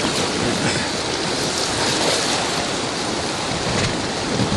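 Steady rushing noise of river whitewater heard from a raft in the rapids.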